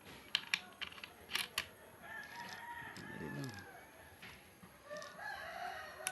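A rooster crowing twice in the background, one long call about two seconds in and another near the end, after a few sharp clicks at the start.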